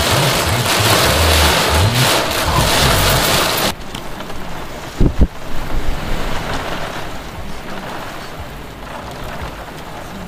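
Heavy rain and hail shower, a loud steady hiss that drops abruptly about four seconds in to a quieter patter, with one sharp thump about a second later.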